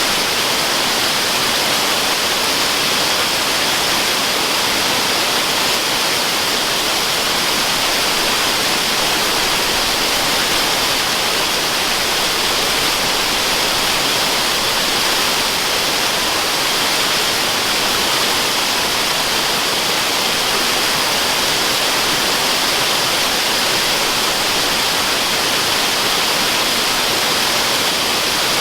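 Waterfall: a steady, unbroken rush of falling water, hissy and bright with little deep rumble, used as white noise.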